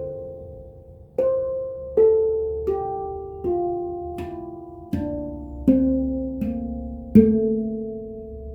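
ByakuPan handpan played one note at a time, each struck note ringing out and slowly fading as the next one comes. In the second half the notes step down through the scale, one after another.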